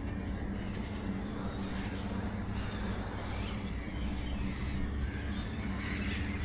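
A large flock of birds calling all at once, a dense, continuous chatter of many overlapping calls, over a steady low hum.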